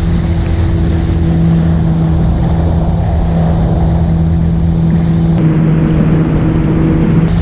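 Yamaha WaveRunner's four-stroke engine running at a steady cruising speed under way, a continuous hum that shifts slightly in pitch twice, with wind noise rumbling on the microphone.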